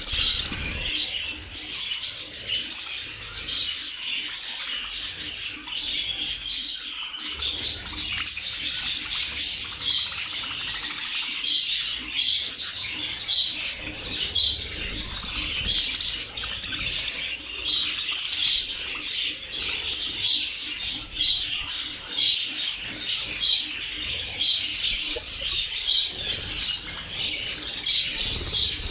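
A large flock of budgerigars chattering and chirping continuously, many short overlapping calls at once.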